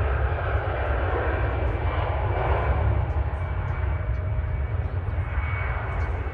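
Twin CFM56 jet engines of an Airbus A320 at takeoff power: a steady, even jet noise over a deep rumble.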